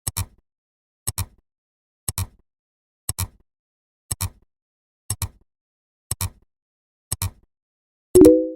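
A short double click repeating once a second, like a ticking counter. About eight seconds in, a louder, brief chime-like tone sounds together with the click.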